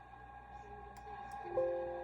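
A single chime-like musical note starts suddenly about one and a half seconds in and rings for about a second as it fades, over a steady faint hum with a few light clicks.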